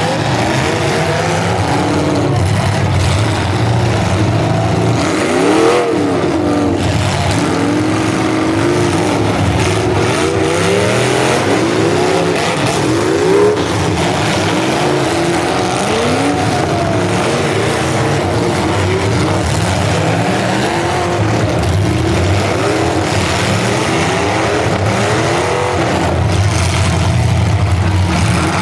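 Several full-size demolition derby cars' engines running and revving hard together, their pitches rising and falling over one another again and again. Two brief louder peaks come about six and thirteen seconds in.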